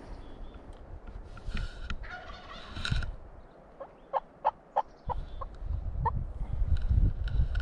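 A Merriam's wild turkey gobbling, once about a second and a half in and more faintly near the end. Between the two gobbles comes a quick series of about eight short, evenly spaced yelp-like notes.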